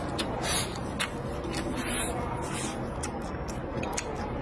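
Close-up eating sounds: a person chewing a mouthful of stir-fried pork and green peppers with rice, with irregular wet mouth clicks and smacks and a few short breathy sucks.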